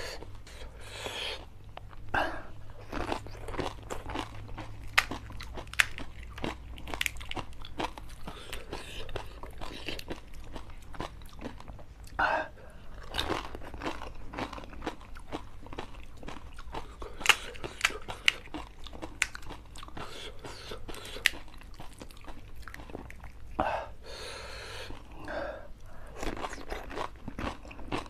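Close-miked eating of pani puri (golgappa): crisp hollow puri shells bitten and chewed, with many sharp crunches and wet chewing throughout.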